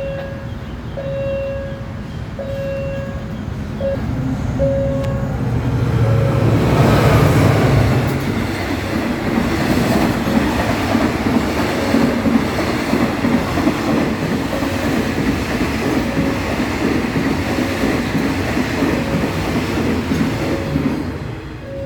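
A train passing through a level crossing: it comes in loudest with a deep engine rumble about six seconds in, then the wagons rattle steadily past. Under it the crossing's warning signal sounds a short tone about once a second.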